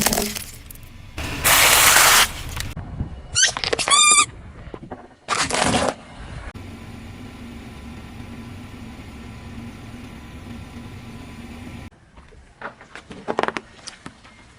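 Things crushed under a car's tyres: several short crunching bursts and a brief high squeal about four seconds in. Then the car's engine hums steadily for several seconds, with a few clicks near the end.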